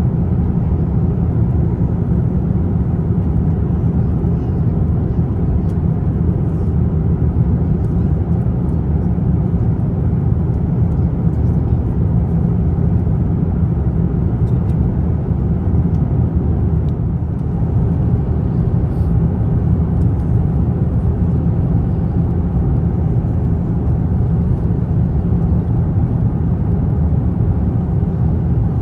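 Steady cabin noise of an Airbus A350-900 airliner in cruise: an even, unbroken rumble of engines and airflow heard inside the economy cabin.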